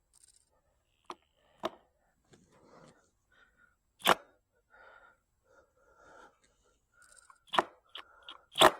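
A handful of sharp knocks and clicks at irregular intervals, loudest about four seconds in and again near the end, with faint scraping between them, while a screw is being worked into thick wood.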